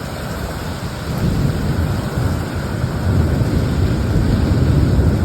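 Rolling thunder over steady rain, the deep rumble swelling about a second in and growing louder again from about three seconds.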